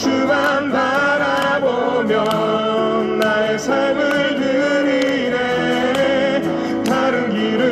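A man singing a Korean worship song over acoustic guitar strumming, with long held, wavering sung notes.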